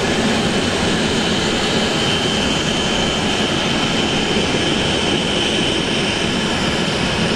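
Jet airliner engines running at an airport: a steady roar with a steady high whine held throughout.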